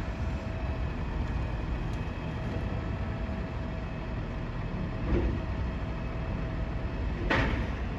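Garbage truck's diesel engine running with a low rumble and a thin steady whine, with a short louder burst about seven seconds in.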